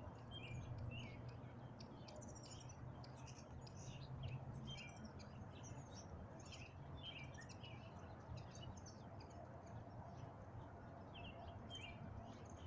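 Faint outdoor birdsong: a run of short, varied chirps and trills, over a low steady background rumble.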